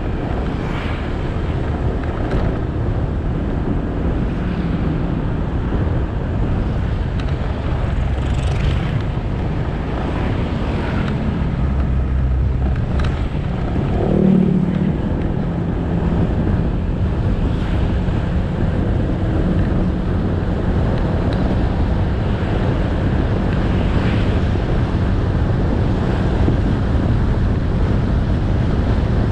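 Motorcycle engine running while riding, with wind and road noise on the camera microphone. About halfway through, a brief louder sound with a pitch to it rises over the ride noise.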